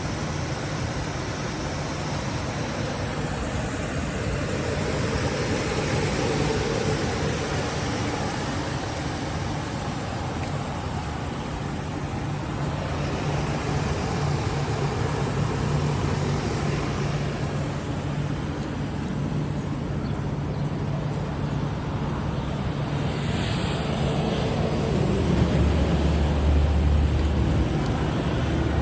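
A motor vehicle engine running steadily amid a steady wash of noise. A deeper low rumble comes in near the end.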